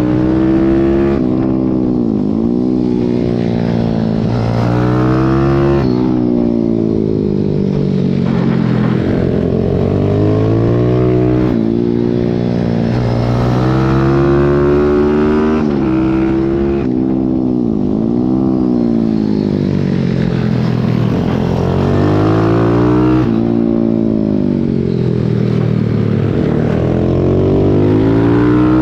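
Pit bike's small four-stroke single-cylinder engine racing at full throttle, recorded onboard. Its pitch repeatedly climbs under acceleration and falls off as the bike slows, every few seconds.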